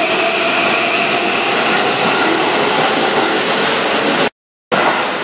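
Keihan 7200-series electric train running past along a station platform: a steady, loud rush of wheel and rail noise with a faint whine that fades over the first second or two. The sound cuts out abruptly for a moment about four seconds in.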